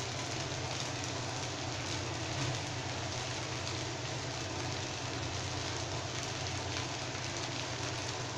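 Cut pieces of idli shallow-frying in oil on a non-stick tawa, sizzling with a steady, even hiss over a low steady hum.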